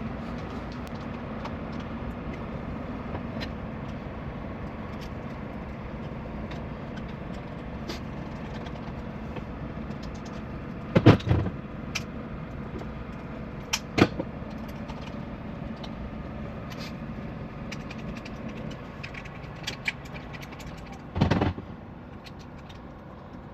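Workshop handling noise: a few sharp knocks and clicks of parts and tools being set down and worked, with a louder clatter about two-thirds of the way in, over a steady low hum.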